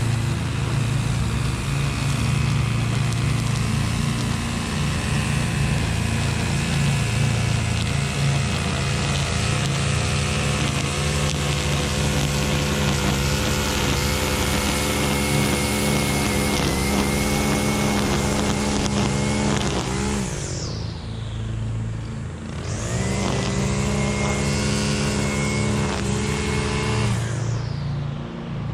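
Husqvarna V554 stand-on zero-turn mower's engine running steadily under mowing load. About twenty seconds in, its pitch falls and the hiss drops away for a couple of seconds before it climbs back up, and it dips again near the end.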